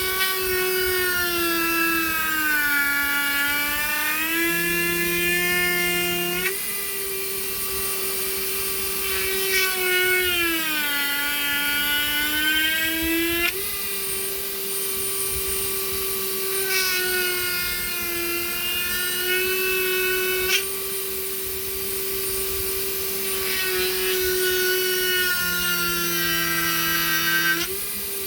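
High-speed rotary power tool with a bit in a collet, running steadily. Its pitch drops and recovers four times as the bit is pushed into wood and cuts.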